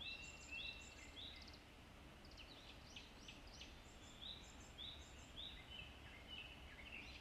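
Faint birdsong: runs of short rising whistled notes, about two a second, with quick trills in between, over a low steady hum.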